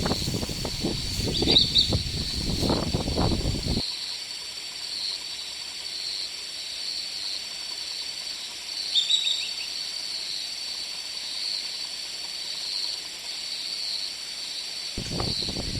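Forest ambience: a steady high insect drone with a few short bird chirps. Low rumbling noise in the first few seconds cuts off abruptly about four seconds in.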